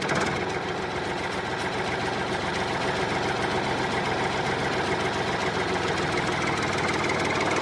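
A small engine idling steadily with a fast, even chugging.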